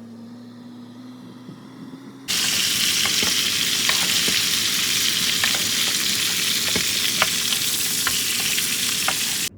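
Food sizzling in a frying pan: a steady hiss with scattered spitting crackles that starts abruptly about two seconds in and stops suddenly near the end. Faint music fades out before it.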